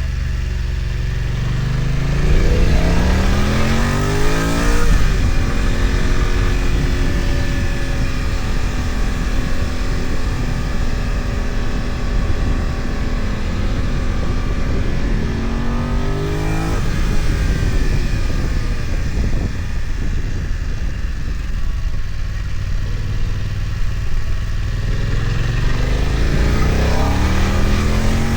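BMW F900XR's parallel-twin engine, heard onboard as the motorcycle climbs a mountain road. The revs rise about two seconds in and then hold steady. They rise again around the middle and once more near the end.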